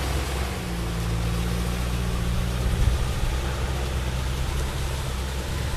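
Kubota M6040 tractor's diesel engine running steadily.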